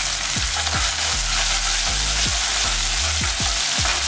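Small onions, curry leaves and coriander leaves sizzling in hot oil in an aluminium pressure cooker, stirred with a ladle in repeated strokes about two or three times a second.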